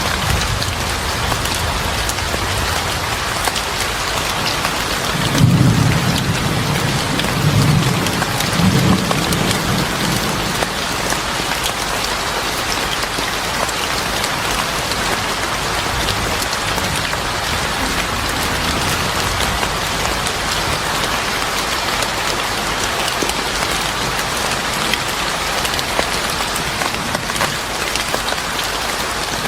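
Steady heavy rainfall, with a low roll of thunder rumbling from about five to ten seconds in.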